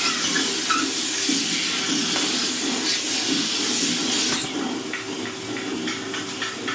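Henry vacuum cleaner running and sucking: a loud rush of air over a steady motor hum, the air rush dropping noticeably about four seconds in.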